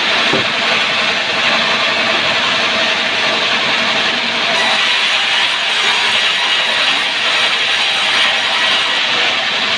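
Sawmill saw cutting through a sengon log, a loud, steady grinding of blade through wood, with a higher hiss added from about halfway through until near the end.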